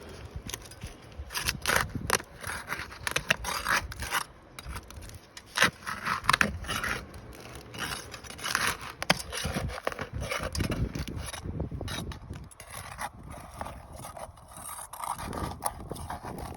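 Asphalt shingles being pried up with a prying tool: irregular scraping and crackling with many sharp clicks and knocks as the sealed tabs break loose and tear. The shingles rip as they are lifted, a sign they are too brittle to repair.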